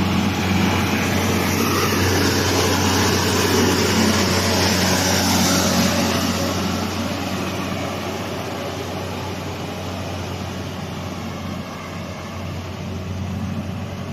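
Heavy diesel truck engine running hard under load, loud for about six seconds and then gradually fading.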